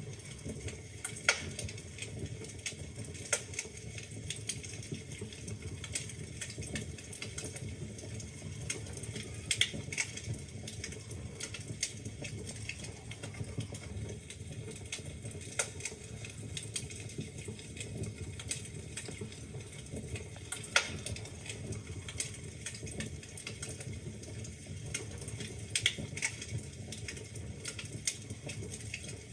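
Wood fire crackling in a fireplace: irregular small pops and snaps from the burning logs over a low steady rumble of the flames, with a few louder pops.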